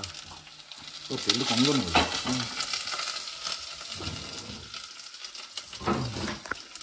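Onions sizzling in hot mustard oil in a kadhai, stirred with a spatula that scrapes and clanks against the pan now and then. A short hum about a second in.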